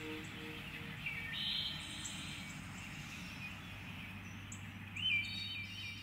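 Wild birds chirping outdoors, with a few short calls about a second in and again near the end, over a steady low background hum.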